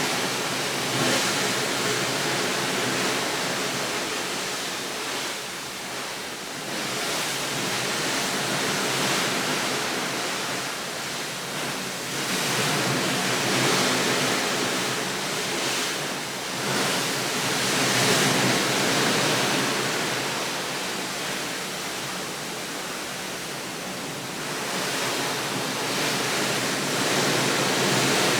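Steady rushing water noise that swells and eases every few seconds.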